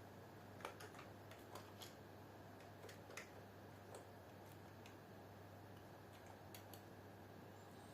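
Faint keystrokes on a computer keyboard: a scattered run of clicks, denser in the first few seconds and sparser later, over a low steady hum.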